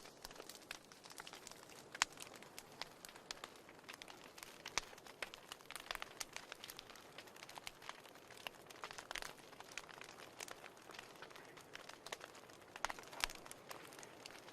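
Wood fire crackling in a fireplace: irregular sharp pops and snaps over a faint hiss, with a few louder pops about two seconds in and near the end.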